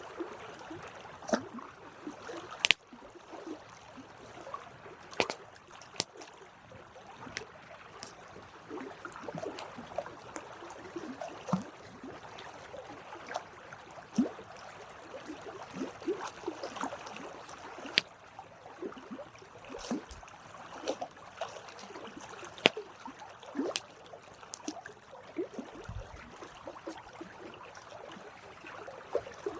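Wood fire burning: irregular sharp crackles and pops, a few of them loud snaps, over a steady hiss and fizz.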